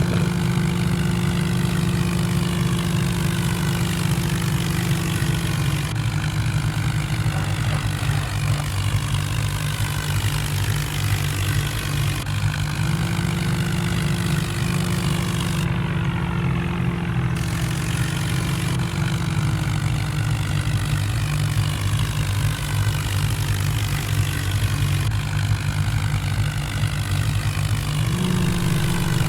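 A vehicle engine running steadily, its pitch dipping slightly a few seconds in and stepping up a little about halfway through and again near the end.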